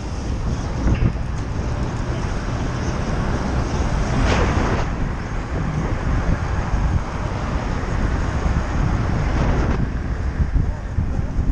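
Motorcycle riding in traffic, heard from the rider's camera: a steady rush of wind on the microphone over engine and road noise, with a louder whoosh about four seconds in and another near nine seconds.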